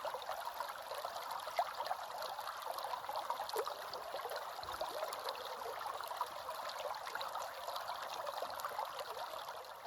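Running water trickling and splashing steadily, a fine even hiss full of small droplet ticks.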